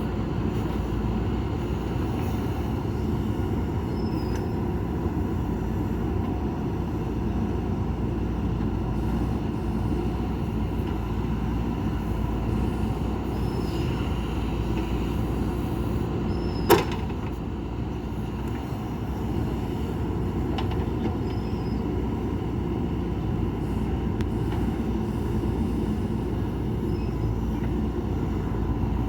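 JCB backhoe loader's diesel engine running steadily at work, with one sharp metallic knock a little past halfway.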